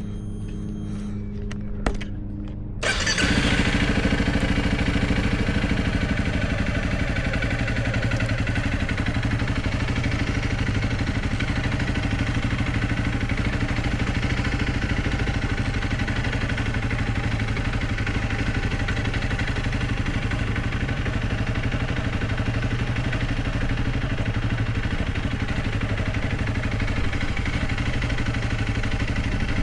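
Honda CRF300L Rally's single-cylinder engine running, with a sharp click about two seconds in. About three seconds in the sound steps up louder and then stays steady.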